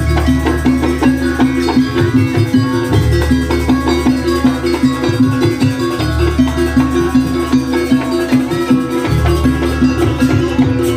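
Live Banyuwangi traditional gamelan music accompanying a barong dance: a fast, even beat of percussion over steady pitched tones, with deep gong strokes sounding several times.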